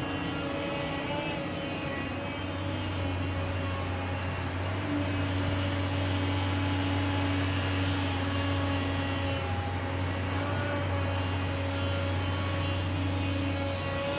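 Heavy diesel engine running steadily at a constant speed, with a steady low hum that gets a little louder about three seconds in.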